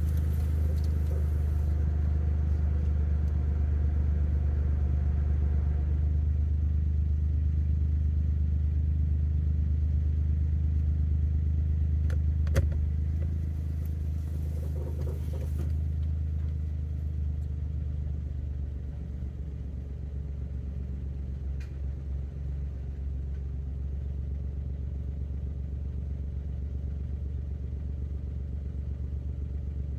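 Suzuki Jimny driving: a steady low drone of engine and road noise, easing somewhat about two-thirds of the way through, with one sharp click near the middle.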